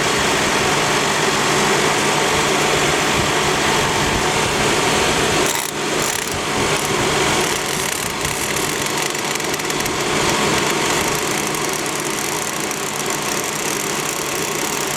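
A tool held against a spinning tire, chattering steadily as the uneven tread makes it jump, over the running wheel and drivetrain. The tire is cupped from lack of rotation, which is the real source of the noise blamed on the wheel bearings.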